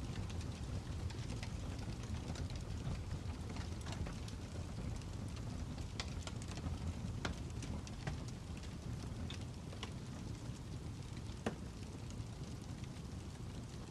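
Fire crackling: a steady low rumble with irregular sharp pops and snaps, one louder pop near the end.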